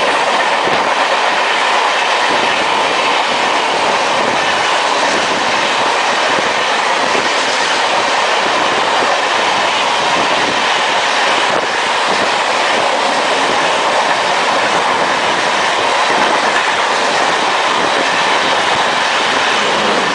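Long passenger train passing at speed: a steady loud rush of coaches, with wheels clattering over the rail joints.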